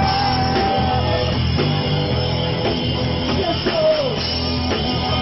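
Live rock band playing between sung lines: a long held note opens and fades out about a second in, then bass, drums and guitar carry on.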